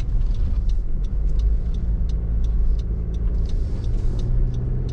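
Car being driven on a snowy road, heard from inside the cabin: a steady low engine and road rumble with a faint hum, and light irregular ticking over it.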